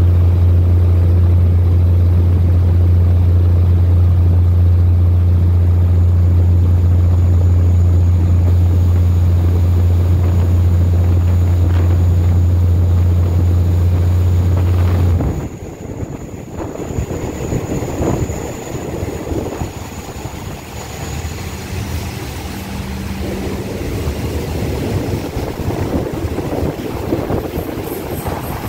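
Diesel passenger train heard from an open coach window: a loud, steady low engine drone drops away abruptly about halfway through as the train slows into the station. It leaves a quieter, uneven rumble of the wheels on the track, with a thin high whine over the middle part.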